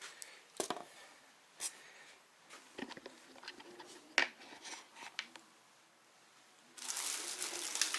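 Packaging being handled while unboxing: scattered light clicks and rustles, then steady crinkling and rustling of the wrapping that starts about seven seconds in.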